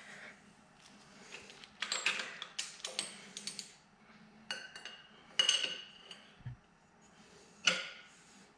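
Metal tools and parts clinking against each other: a cluster of rattling clinks about two to four seconds in, then a few single clinks that ring briefly, the loudest near the end.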